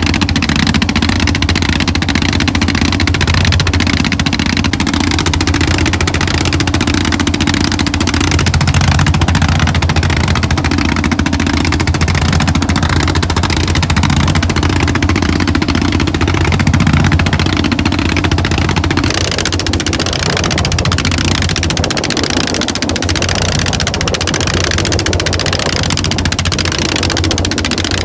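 A boat's engine running steadily with a fast, even pulse and a strong low hum. About two-thirds of the way through the low hum weakens and a hiss comes up.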